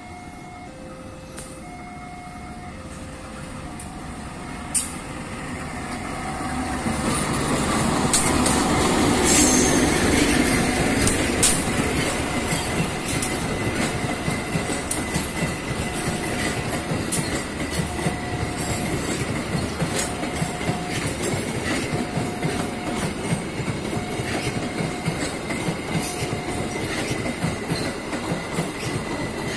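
Passenger train hauled by a diesel locomotive passing slowly over station points, speed-restricted to take the turnout onto the diverging track. The rumble builds to its loudest about ten seconds in. The coaches then follow with wheels clacking over the rail joints and a steady high wheel squeal on the curve. An alternating two-note electronic warning tone sounds at the start and again in the second half.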